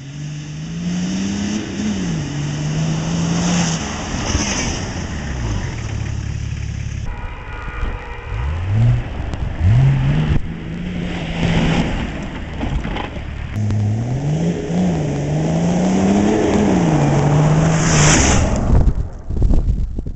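Six-cylinder 4x4 engine revving up and down under load while driving off-road over steep dirt banks, the engine note rising and falling several times. The sound breaks off abruptly a few times between takes.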